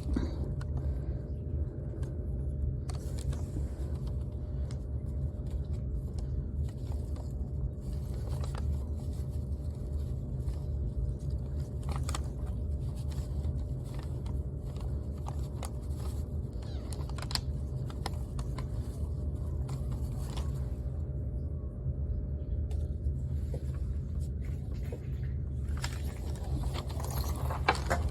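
A steady low hum throughout, with a few faint light clicks and rustles from hands tying string onto a wooden popsicle-stick bird feeder.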